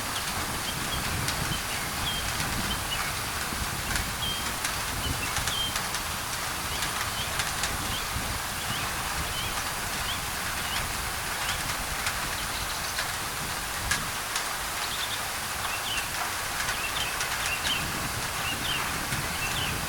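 Rain falling on a thin tin roof, with many sharp drop ticks over a steady hiss of white noise. Small birds chirp briefly now and then throughout.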